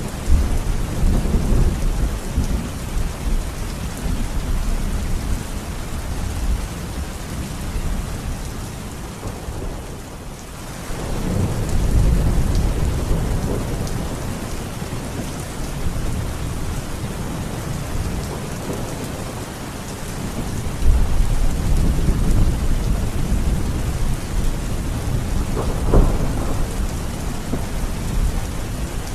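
Heavy rain falling steadily while thunder rumbles in repeated deep swells, easing briefly about a third of the way in. A sharper thunderclap comes near the end.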